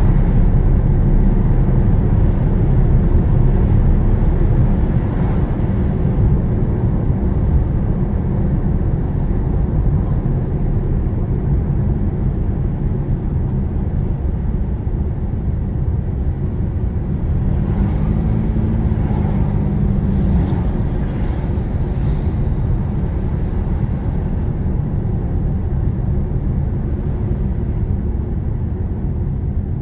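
Steady low rumble of engine and tyre road noise inside a moving car's cabin, with a faint hum that rises and falls briefly about two-thirds of the way through.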